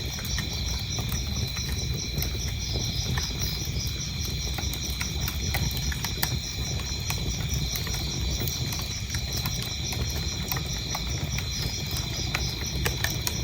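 Wood fire crackling, with frequent sharp pops over a low steady rumble, and crickets chirping in a steady, even pulse.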